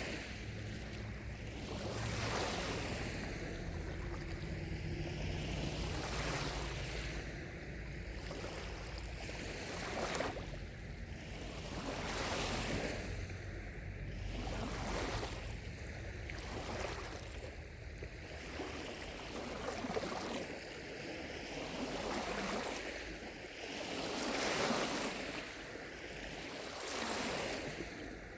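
Small lake waves lapping on the shore, a soft wash of water that swells and falls about every two seconds.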